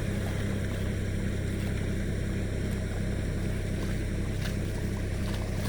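John Deere tractor's diesel engine running steadily at a constant pitch.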